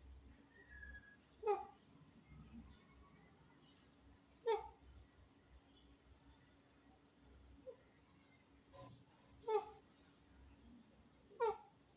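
A pet parrot giving short, sharp calls about four times, each a brief squawk. Under it runs a steady high cricket-like trill.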